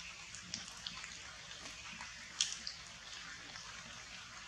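Rain falling steadily on forest foliage, a constant hiss with scattered sharper drops landing close by, the loudest about two and a half seconds in.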